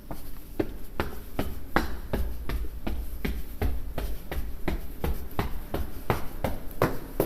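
Footsteps walking at a steady pace, about two to three steps a second, over a low rumble.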